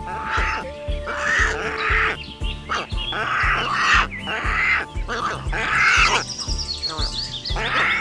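A pelican gives a series of about six harsh, raspy calls, each under a second long, over background music with a steady beat. A few quick, high chirping notes come in about three-quarters of the way through.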